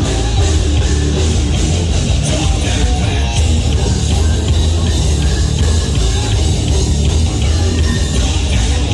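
A live heavy metal band playing loud, with distorted electric guitars, bass and a drum kit.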